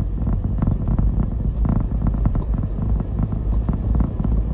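Car driving: steady low road and engine rumble with frequent small knocks and rattles.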